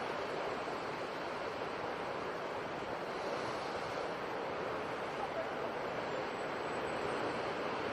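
Sea surf: a steady, unbroken rush of waves with no single crash standing out.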